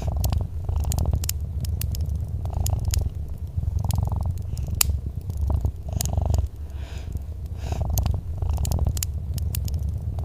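Domestic cat purring steadily, a low rumble that swells and eases with each breath. Sharp little crackles and pops from a wood fire are scattered throughout.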